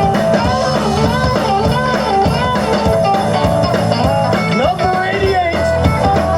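Live rock-and-roll band playing an instrumental break, with an electric guitar lead bending notes over the band.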